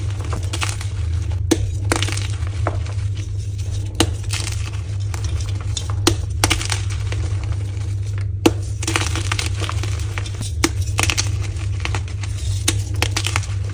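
Soft blocks of gym chalk being crushed, with crisp cracking snaps and crunchy crumbling coming thick and fast, over a steady low hum.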